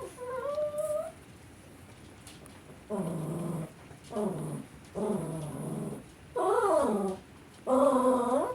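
A pet animal calling again and again: about six drawn-out, pitched calls, the first rising in pitch and one near the end rising then falling.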